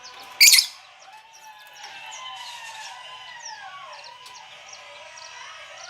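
Lovebirds chirping in their cage, with one loud, shrill screech about half a second in followed by a run of shorter chirps and gliding calls.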